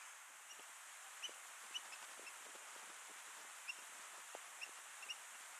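Faint, short, high chip calls from a small bird, several at irregular intervals, some in quick pairs, over a steady soft outdoor hiss.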